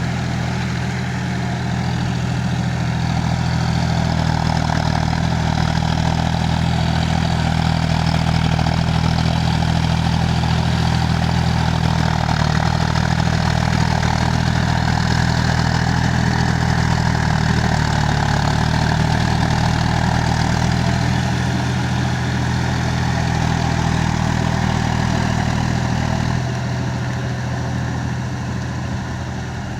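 Tractor diesel engine running steadily, with a low even drone. It gets a little louder in the first few seconds and eases off again near the end.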